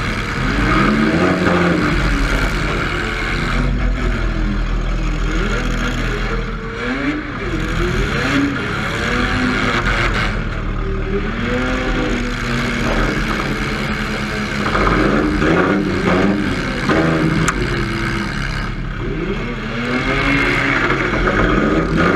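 Demolition derby car's engine revving hard, its pitch rising and falling again and again as it accelerates and backs off, with scattered knocks and clatter.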